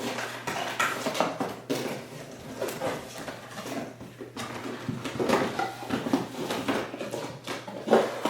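Vacuum parts and packaging being pulled out of a cardboard box and handled: rustling, scraping and irregular clatter with sharp knocks, loudest near the end.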